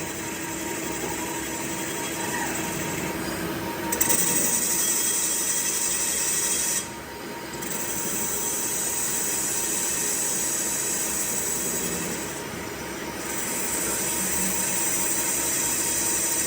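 A workshop machine tool running steadily with a high hiss. It gets louder about four seconds in and eases off briefly twice.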